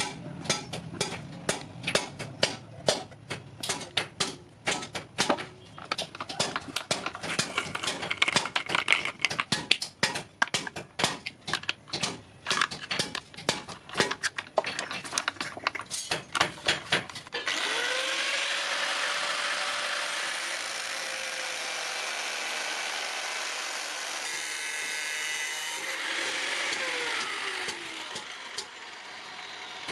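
Rapid, irregular sharp knocks of hand-tool work on metal, several a second, for just over half the time. The knocks then give way abruptly to an electric power tool running steadily, its pitch dropping about two seconds before the end.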